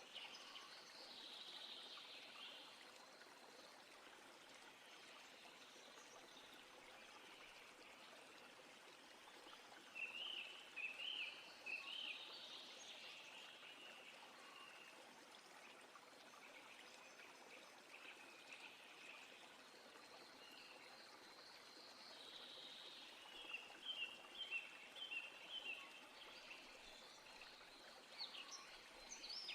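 Birds singing in short chirping phrases, a burst about a third of the way in and a longer run of quick repeated notes near the end, over a faint steady outdoor hiss.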